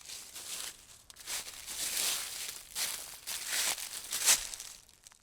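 Dry rustling and crinkling in uneven bursts, loudest near the end, then cutting off abruptly.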